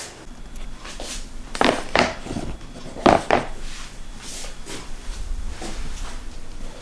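Handling noises: a few light knocks, two pairs close together, with rubbing and shuffling between them.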